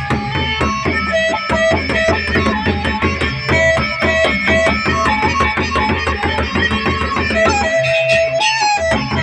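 Gendang beleq ensemble playing: a bamboo flute carries a melody of held notes over the large drums and clashing percussion, which keep a steady, busy beat.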